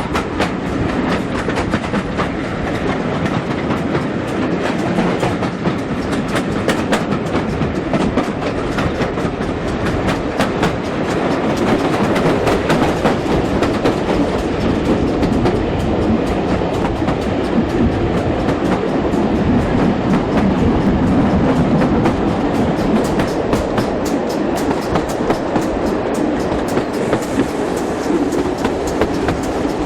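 Heritage steam-hauled passenger train running along the line, heard from aboard: a steady rumble of carriage wheels on the track with many quick clicks over the rail joints, a little louder midway through.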